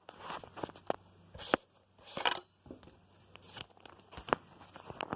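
Handling noise: irregular clicks, knocks and short rustles, with the two loudest about a second and a half and two seconds in.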